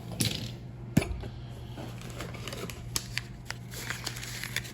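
Hot Wheels die-cast toy cars being handled and set down: a brief rustle at the start, one sharp click about a second in, then scattered light clicks and taps, over a low steady hum.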